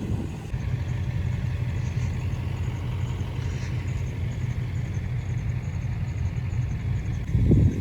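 Pickup truck engine running steadily with a low rumble, rising briefly louder near the end.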